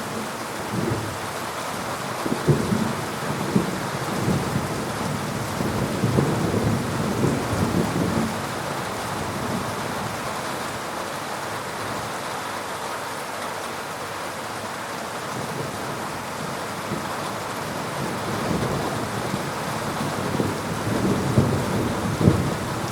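Thunderstorm: steady rain hissing, with low rolling thunder swelling up a couple of seconds in and again near the end.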